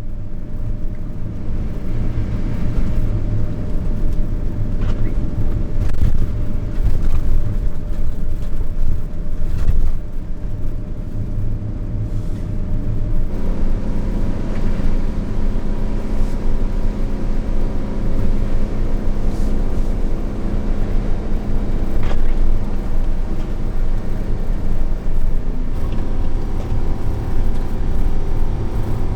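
A car running with a heavy, continuous low rumble. About halfway through, a steadier engine hum with several pitched tones comes in, and there are a few scattered clicks.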